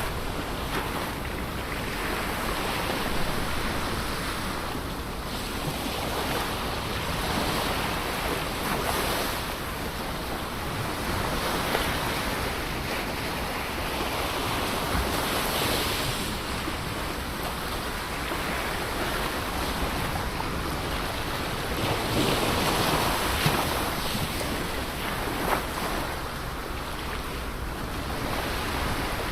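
Ocean surf washing on a shore: a continuous rush of breaking waves that swells and eases every few seconds.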